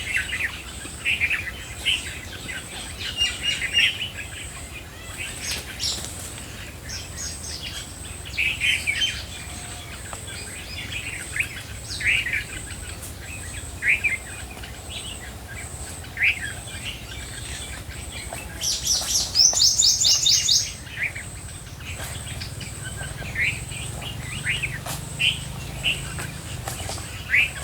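Several birds chirping with short, scattered calls, and a louder quick run of notes about two-thirds of the way through.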